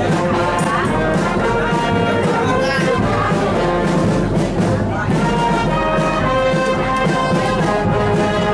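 Military brass band playing a tune in held, sustained notes.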